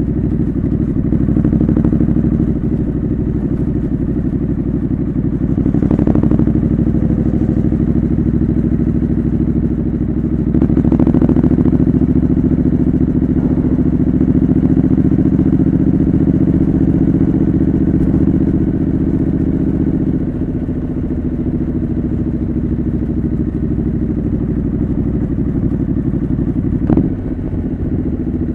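Triumph Scrambler 900's parallel-twin engine running under way through a homemade exhaust, a steady note that gets louder about ten seconds in and eases off again later, with a short break near the end. Wind buffets the microphone.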